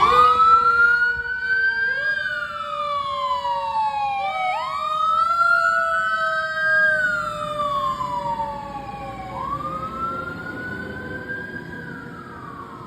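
Fire engine's Federal Q mechanical siren wailing at full power. It winds up and coasts down in pitch about three times, growing fainter toward the end as the engine moves away.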